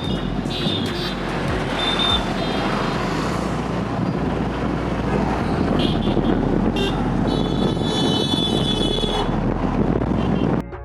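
Road traffic running steadily, with vehicle horns honking: short toots early on and one long honk held for about two seconds near the end.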